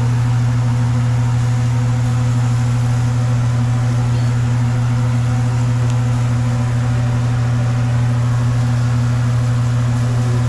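A loud, steady low hum with a fainter hiss above it.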